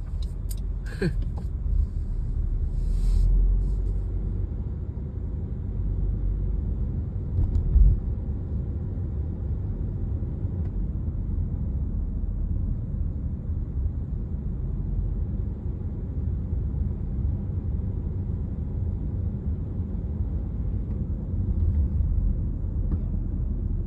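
Steady low rumble of a Honda CR-V's 1.5-litre turbo engine and road heard inside the cabin, with no valve ticking audible: the tick the owner was chasing is gone for now.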